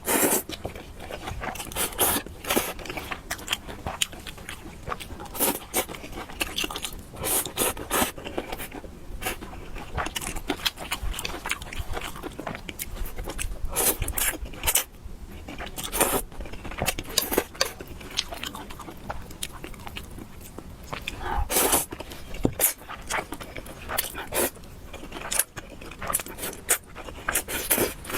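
A person eating noodles close to the microphone: irregular chewing, biting and mouth clicks, several sharp clicks a second.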